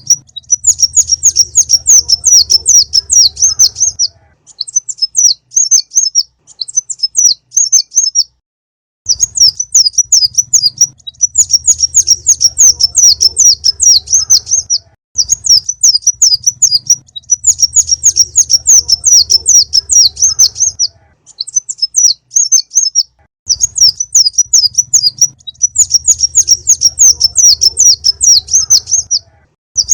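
Sunbird ('konin') song from a lure recording: rapid, high, thin chirping in bursts of one to four seconds, with short gaps between phrases and the same sequence repeating as a loop. A low hum sounds under the longer bursts.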